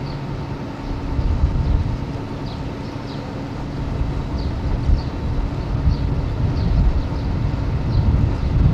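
A train running with a steady low rumble and a constant engine hum; the rumble swells about a second in and again near the end. Faint short high chirps recur every second or so.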